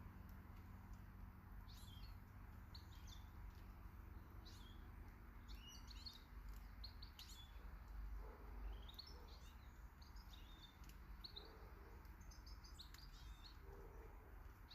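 Small garden birds chirping faintly in short, scattered calls, over a steady low background rumble.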